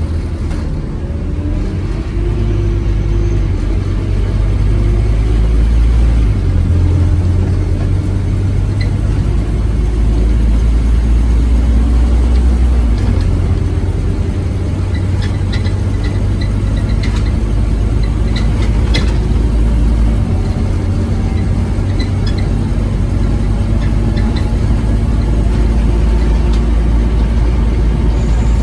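Scania OmniCity bus engine heard from on board under way, a loud steady low drone that steps in pitch three times as the gears change. Light clicks and rattles come through around the middle.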